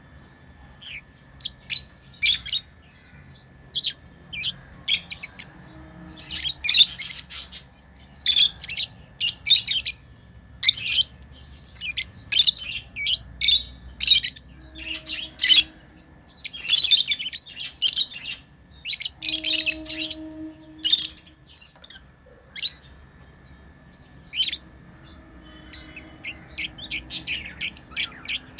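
Pet lovebirds chirping: a run of short, high chirps with busier bursts of chatter now and then.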